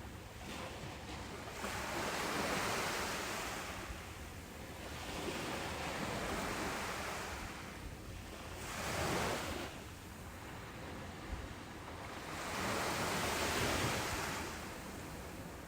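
Ocean surf breaking on a beach: a steady rush of wave noise that swells and ebbs about four times as successive waves come in.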